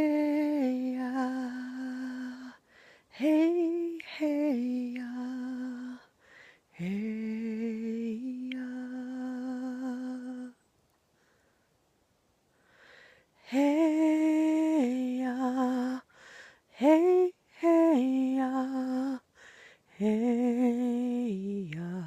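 A woman chanting without words: long held notes that step down in pitch at the end of each phrase, sung in phrases of a few seconds with short breaths between them and one longer pause midway.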